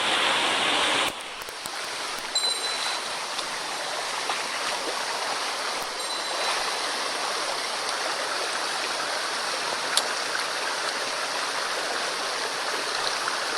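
Mountain stream running high after a typhoon: a steady rush of water, louder for about the first second, then even, with a few faint ticks.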